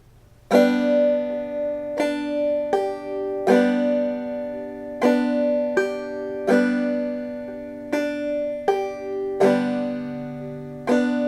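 Five-string banjo played clawhammer style, slowly: a strum across the strings, then a single plucked note, then the thumb on the short drone string, the notes left to ring. The long-short-short 'bum-diddy' pattern repeats three times, with a fourth strum and pluck near the end.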